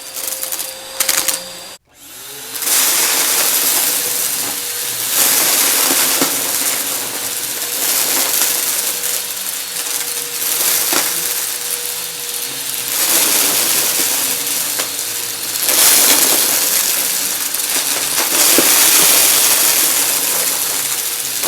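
Vacuum cleaner running and sucking up confetti, with a constant crunchy crackle of the pieces rattling up into the machine over its steady motor tone. About two seconds in the sound cuts out abruptly for a moment, then comes back.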